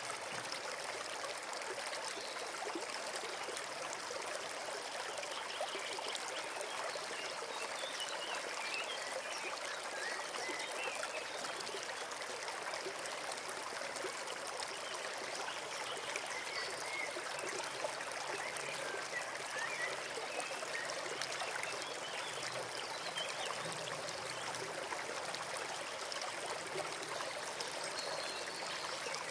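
Small forest stream flowing: a steady, even rush and trickle of running water.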